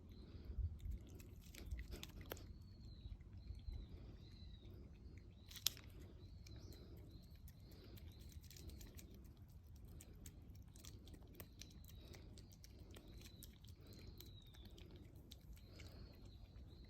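A cat chewing food: a quiet, irregular stream of small crunches and clicks, with one sharper click about a third of the way in.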